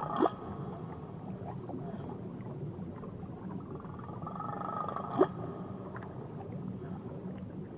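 Whale song underwater: two drawn-out calls over a steady low rumble. Each call ends in a sharp downward sweep, one just at the start and one about five seconds in.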